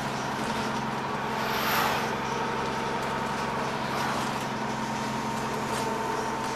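Dennis Trident double-decker bus engine running steadily, with a steady turbo whistle over the engine note. A brief rush of noise swells and fades about two seconds in.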